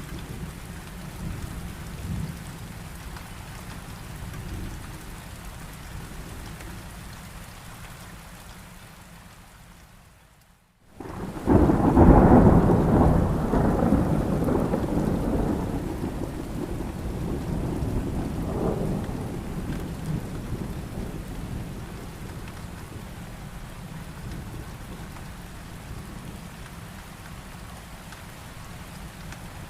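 Heavy rain falling steadily. It fades out for a moment about a third of the way in, then a loud clap of thunder breaks in and rumbles, dying away slowly over the rain.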